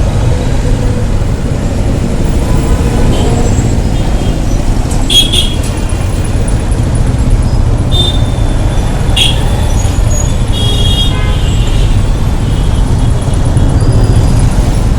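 Congested road traffic: a steady low rumble of engines, with several short horn toots about five, eight and nine seconds in and a longer one near eleven seconds.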